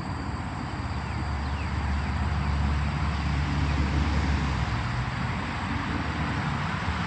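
Insects droning steadily in one high band over a low rumble, with a few faint short chirps about two seconds in.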